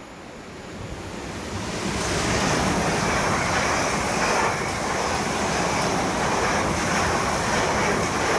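South Western Railway electric multiple-unit train running along the platform: a rushing roar of wheels on rails that builds over the first two seconds and then holds steady and loud.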